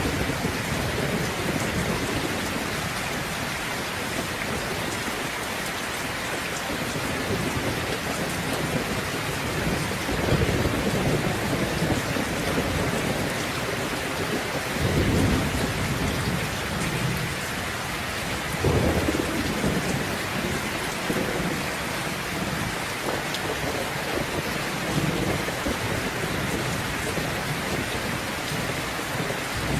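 Steady heavy rain with rumbles of thunder rolling in and out, the strongest swells about ten, fifteen and nineteen seconds in.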